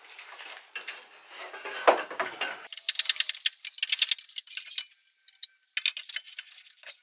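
Metal parts clinking and rattling in quick runs of sharp clicks, in two bursts, as hardware is handled. Before that, steady insect chirping, about three chirps a second.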